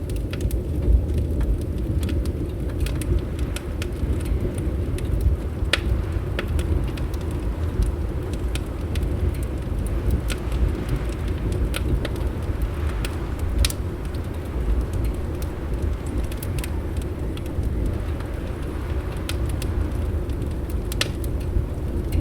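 Fireplace crackling, with scattered sharp pops at irregular moments over a steady low rumble of wind.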